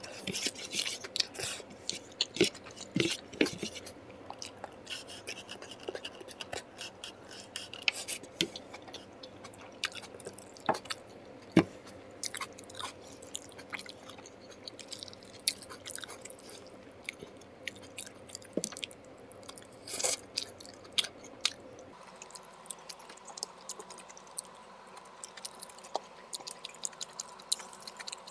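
Close-miked chewing and eating mouth sounds: irregular wet smacks and clicks as a man chews a meal of mutton curry and rice.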